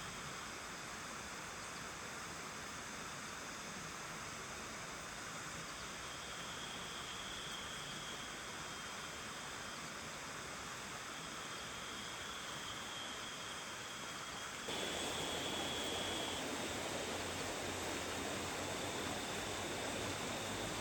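Steady rain falling, a continuous hiss. About fifteen seconds in it turns suddenly louder and fuller and stays that way.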